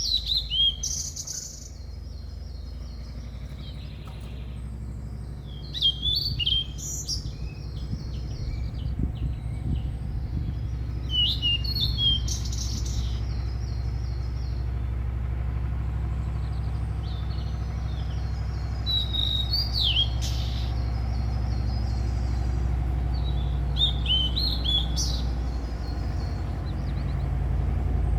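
Small birds chirping in short phrases every few seconds over a steady low rumble.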